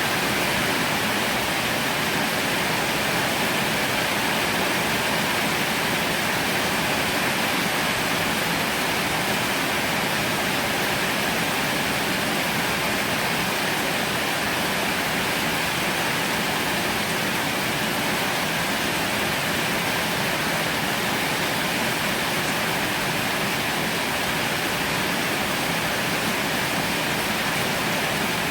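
Heavy rain falling in a steady, even hiss, with no thunder or single impacts standing out.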